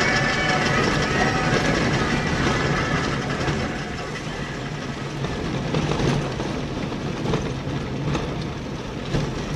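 A car being driven, its road and engine noise heard as a steady rumble with rattling.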